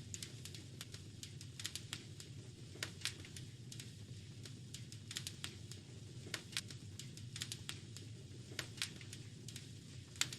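Wood fire crackling in a fireplace: irregular sharp pops and snaps, several clustered every second or so, over a steady low rumble of the burning fire.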